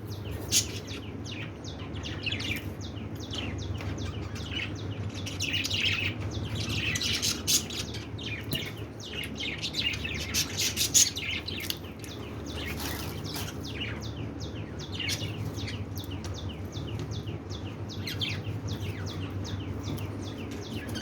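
Aviary budgerigars and finches chirping continuously: a dense stream of short, rapid chirps, loudest between about six and eleven seconds in, over a steady low hum.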